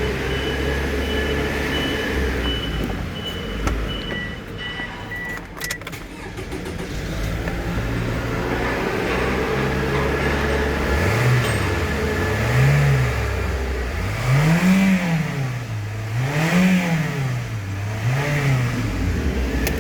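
Toyota 1AZ-FSE 2.0-litre four-cylinder engine idling steadily, with an electronic beeping over it in the first five seconds. In the second half it is revved five times toward mid revs, the pitch rising and falling back to idle with each blip, as in an engine test at idle and mid rpm.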